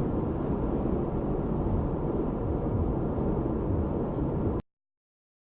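Steady low rumble of a car in motion, road and engine noise heard from inside the cabin. It cuts off suddenly near the end into silence.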